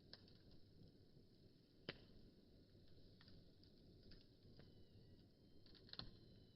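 Wood fire crackling faintly: scattered sharp pops, the loudest about two seconds in and again near the end, over a soft low rustle of the flames.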